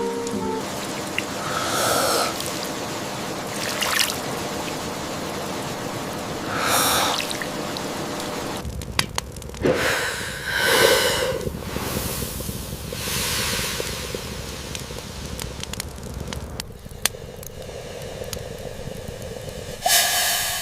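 Steady rain falling, with short breathy sounds from a person every few seconds, about half a dozen in all.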